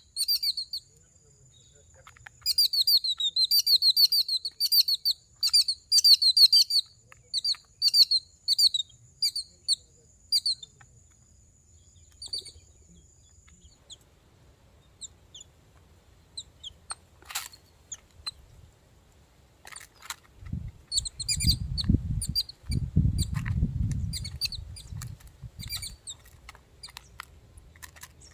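Small birds chirping: fast runs of short, high, repeated chirps, then scattered calls. Near the end there is a few seconds of low rumbling.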